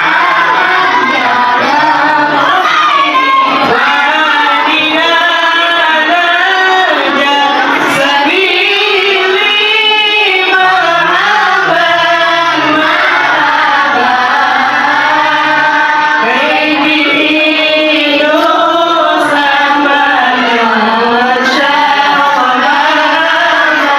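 Voices singing sholawat, Islamic devotional praise of the Prophet, in long wavering melodic lines.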